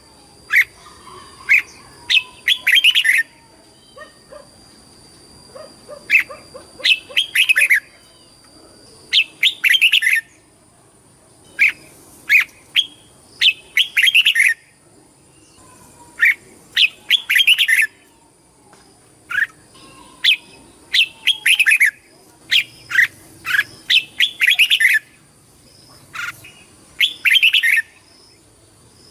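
Red-whiskered bulbul singing: short, loud phrases of rapid chirping notes, repeated every one to three seconds.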